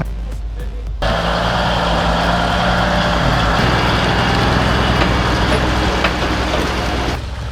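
Heavy truck's diesel engine running at a steady pace, with a rush of mechanical noise that comes in about a second in and drops away near the end.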